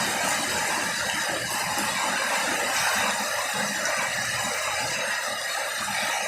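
Heavy rain pouring down, a steady rushing noise.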